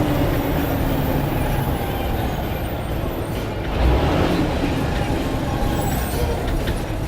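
Blue Bird All American bus under way: a steady run of engine and road noise, with a brief louder bump about four seconds in.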